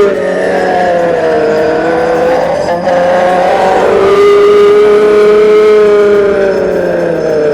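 A loud, sustained screeching sound effect of several held pitches at once, wavering, dipping slightly and rising again, then easing off near the end.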